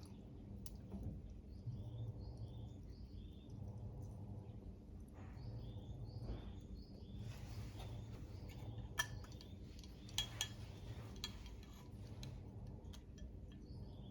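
Faint clinks of cutlery against dishes, with a few sharper ones about nine to eleven seconds in, over a steady low hum and a high chirping sound that repeats about twice a second.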